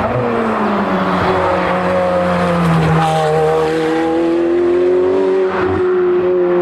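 Hillclimb race car engine running hard. Its pitch drops over the first second or so as the car slows, then climbs steadily as it accelerates away.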